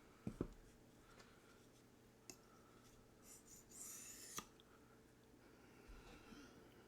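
Sharpening gear being quietly handled: a couple of light knocks near the start, a click a little after two seconds, and a brief light scrape ending in a click about four seconds in.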